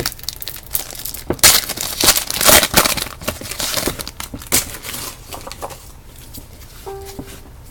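Trading-card pack wrapper being torn open and crinkled, in irregular bursts of tearing and crackling.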